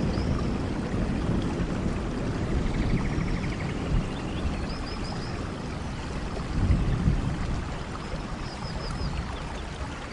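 Steady rushing noise with a low rumble, fading slightly toward the end, with faint high repeated chirps a few times over it.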